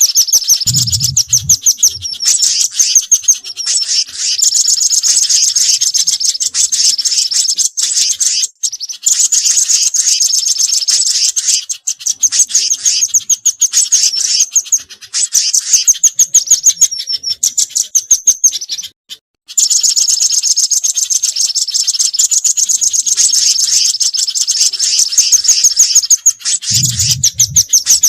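Bird-lure recording of small garden birds calling: rapid, high chirping trills repeated almost without pause, with a brief break about two-thirds of the way through.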